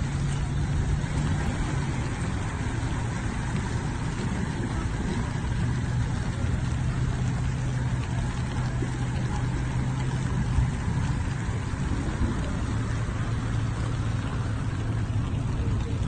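Vehicle engine humming steadily over a constant wash of water noise from a car moving through street floodwater.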